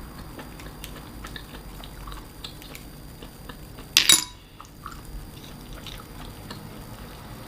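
Close-miked eating of clams and baby octopus: scattered small wet clicks and mouth sounds, with one short, loud burst of noise about four seconds in.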